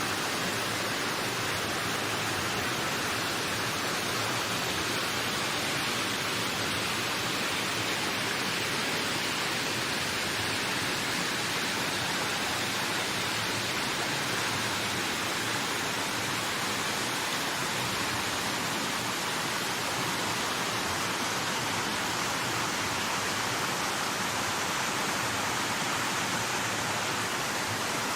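Wind blowing steadily: an even rushing hiss with no low rumble, its brightness shifting slowly.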